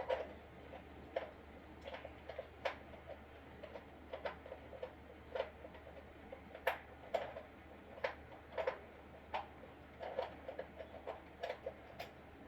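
Irregular light clicks and knocks of small hard parts and tools being handled, several close together at times, with a few louder knocks scattered through.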